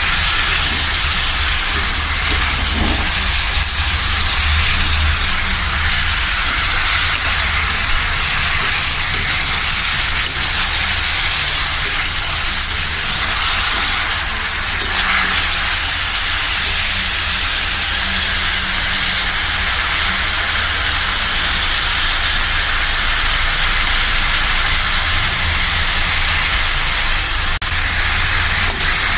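Chicken pieces frying in hot oil in a wide pan, a steady sizzle with a low rumble beneath.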